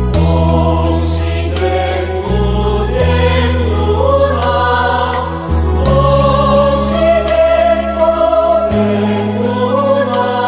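Buddhist devotional song in praise of Guanyin: a choir singing a slow melody over sustained bass notes, with a steady beat of light percussive ticks about twice a second.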